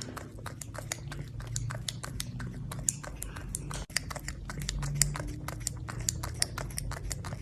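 A pet chewing: a quick, irregular run of crisp clicks and crunches, several a second, over a low steady hum.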